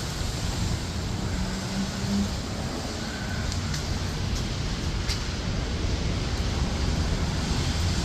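Steady rain with wind rumbling on the microphone.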